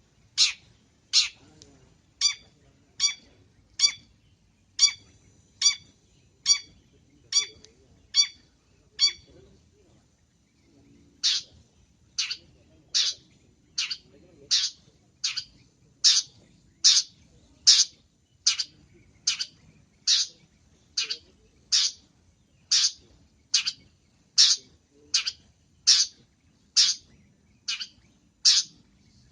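Long-tailed shrike (cendet) giving short, sharp calls over and over at about one a second. The calls break off for a couple of seconds around ten seconds in, then resume a little faster.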